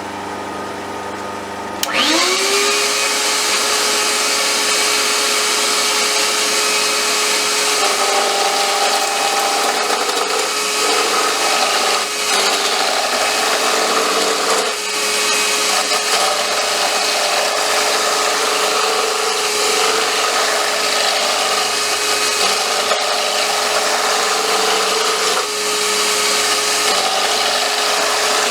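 Wood lathe running. From about two seconds in, a chisel cuts a wooden popper blank mounted off-centre, giving a loud, steady rasping hiss over a motor whine that rises in pitch and then holds.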